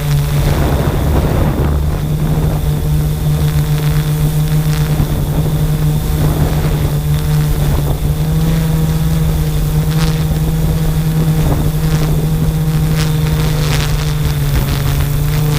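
Quadcopter drone's propellers humming at a steady pitch, with wind buffeting the microphone and a few short clicks near the end.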